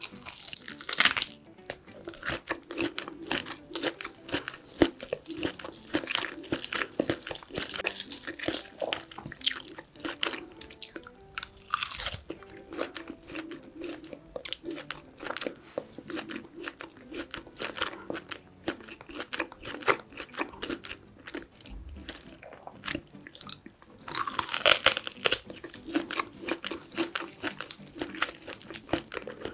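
Close-miked eating of braised kimchi and pork back ribs: steady wet chewing and crunching with many sharp mouth clicks, and louder bites about a second in, around twelve seconds and again around twenty-five seconds.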